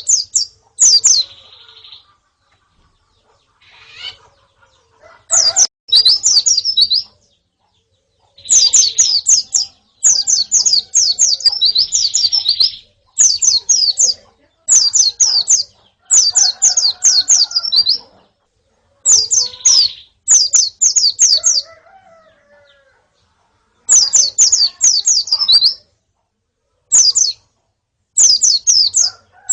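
Pleci (white-eyes) calling: repeated bursts of rapid high chirps, each about a second long with short pauses between, in a recording of a female and a colony.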